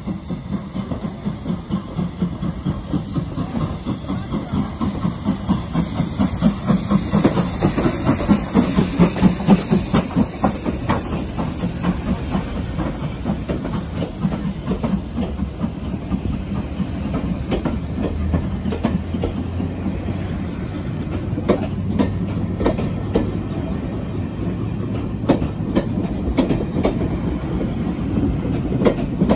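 A passenger train running past at speed. A fast rhythmic pulsing peaks partway through, then the coaches' wheels click sharply over the rail joints as they roll by.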